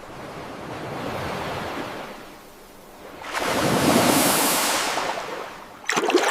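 Ocean surf washing in: two swells of rushing wave noise, the second louder, followed by a short sharp burst near the end.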